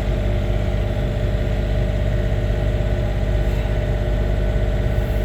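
Compact diesel tractor engine running steadily under load, with its snowblower engaged. It makes an even, continuous drone.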